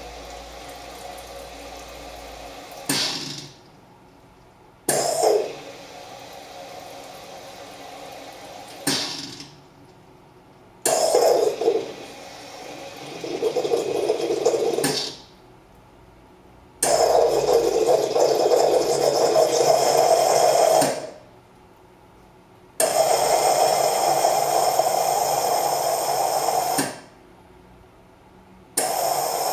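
Carimali Gusto automatic coffee machine running its milk-system rinse cycle, pumping fresh water and steam through the foaming device in repeated bursts of about four seconds. Each burst starts sharply and is followed by a pause of about two seconds; the later bursts are louder.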